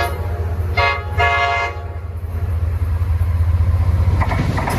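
Train horn sounding two short blasts about a second in, over the steady low rumble of a train. A few knocks come near the end.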